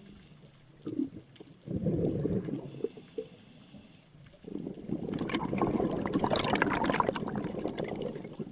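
Scuba diver's exhaled bubbles gurgling and crackling underwater from the regulator: a short burst about two seconds in, then a longer, louder one from about halfway to near the end.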